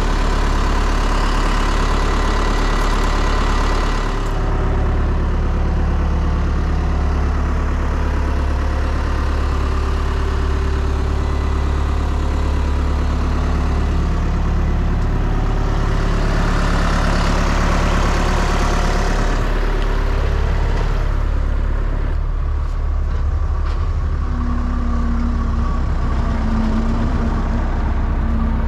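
Vehicle engine and road noise heard from inside the cab while driving: a steady, loud low rumble that shifts slightly a few times.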